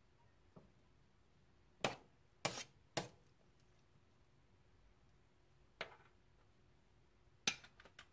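Several short, sharp clinks and knocks of kitchenware, about six of them spread out, three close together around the second and third seconds, with quiet room tone between them.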